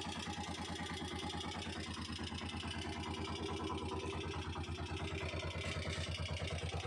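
Honda TMX125 Alpha's single-cylinder four-stroke engine idling steadily, with even, regular firing pulses.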